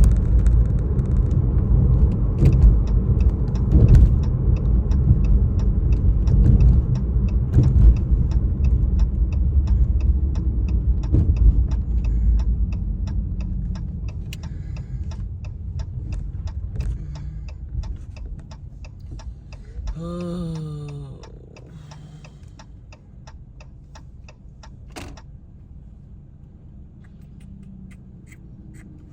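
Car cabin noise while driving: a steady low rumble that dies away over the second half, with a regular ticking about one and a half times a second and a short wavering pitched sound about two-thirds through.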